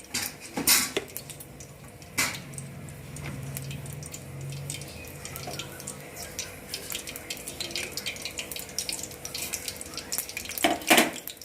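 Whole spices (fennel seeds, cinnamon, cardamom) sizzling and crackling in hot oil in a pan, a dense run of small pops. There are a few louder knocks, one near the start and another near the end.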